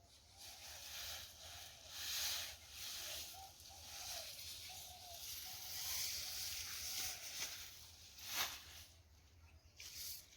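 Rustling and swishing of cut napier grass stalks and leaves being handled and tied into bundles, coming in uneven swells, with a sharp snap a little after eight seconds in.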